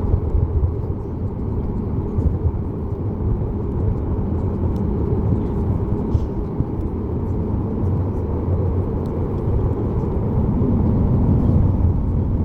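Cabin noise inside a Boeing 737 MAX 8 with its CFM LEAP-1B engines running: a steady low rumble with a faint hum above it, growing a little louder near the end.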